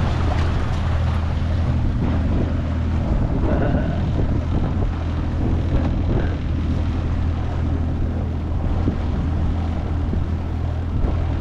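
25 hp Mercury four-stroke outboard motor running steadily as the jon boat moves along, with wind buffeting the microphone.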